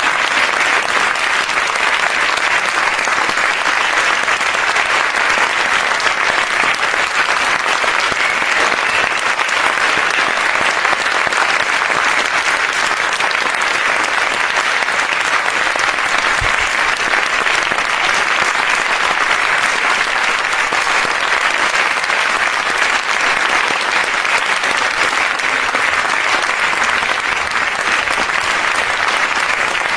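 Steady, unbroken applause: a dense clatter of many hands clapping that holds level throughout, with no gunshots in it.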